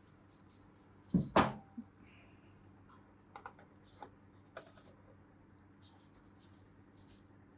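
Metal engine parts being handled: two loud knocks about a second in, then a scatter of light clicks and taps.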